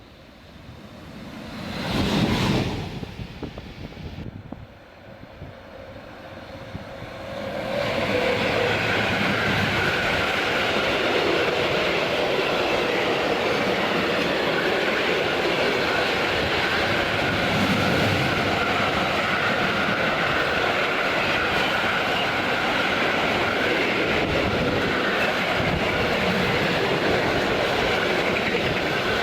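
A train passing close by on the rails: a steady, loud rolling noise of wheels on track that starts about eight seconds in and keeps going, after a brief loud sound about two seconds in.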